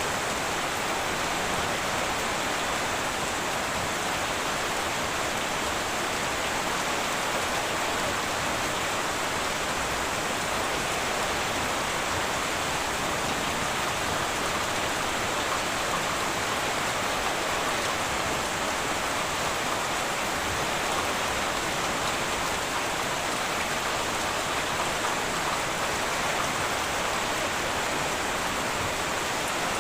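Heavy rain falling steadily on a tin roof, an even, unbroken hiss with no thunderclaps.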